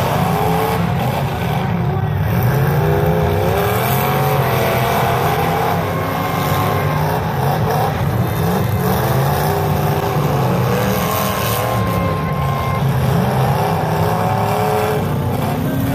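Several demolition derby cars' engines running and revving together, loud and continuous, their pitch rising and falling as the cars push against each other.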